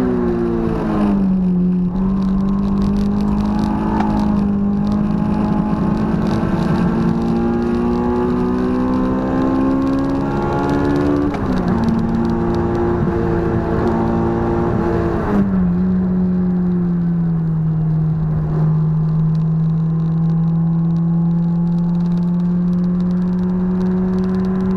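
Honda S2000 AP1's F20C four-cylinder engine running under load with an irregular popping, crackling noise ('poro-poro') and reluctance to rev, which the owner suspects is a misfire. The engine note climbs slowly for about ten seconds, drops in pitch twice, then holds steady.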